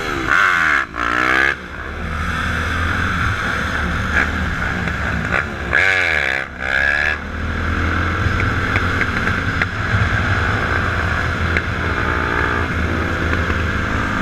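Dirt bike engines running, with two sharp revs that rise and fall in pitch near the start and about six seconds in, over a steady drone of idling engines.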